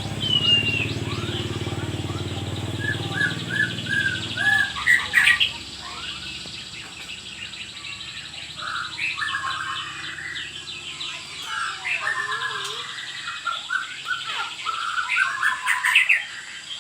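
White-rumped shama (murai batu) singing a run of varied whistled phrases and chattering notes. A low motor hum underneath stops about four and a half seconds in.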